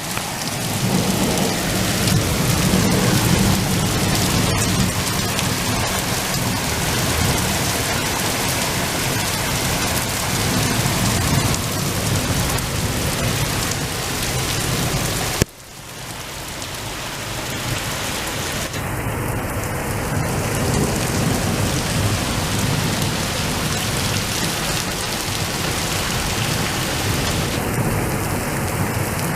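Heavy rain pouring steadily in a thunderstorm, with thunder rumbling low underneath. About halfway through the sound drops out suddenly and builds back up over a few seconds.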